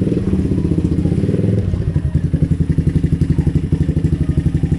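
Motorcycle engine running with a rapid, even pulsing rhythm; the engine note shifts a little under two seconds in.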